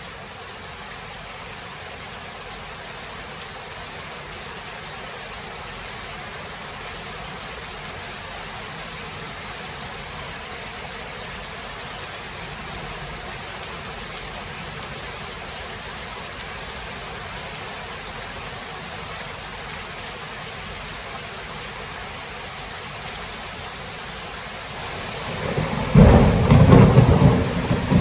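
Steady rain falling, then near the end a loud clap of thunder that rumbles on.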